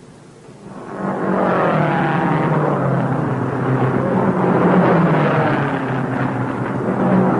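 Racing car engines running loud, rising in about a second in and then holding with a steady engine drone.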